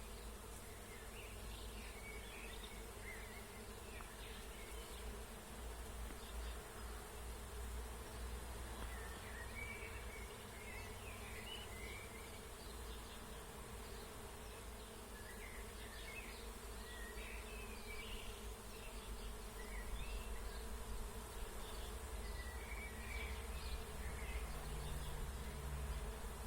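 Steady buzzing of bees foraging on a plum tree, with songbirds singing short phrases in the background every few seconds.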